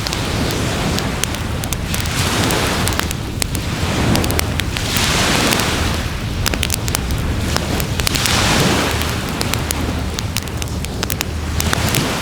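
Wood fire crackling, with frequent sharp snaps and pops, over the wash of waves on the shore that swells up twice, about halfway through and again near the end.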